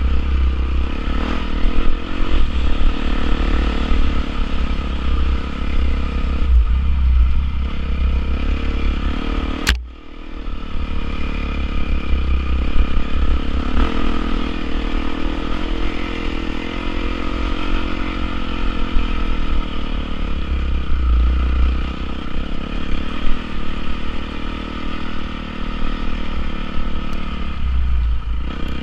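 Honda CRF450R single-cylinder four-stroke motocross engine running, its pitch rising and falling gently with the throttle. The sound cuts out briefly about ten seconds in.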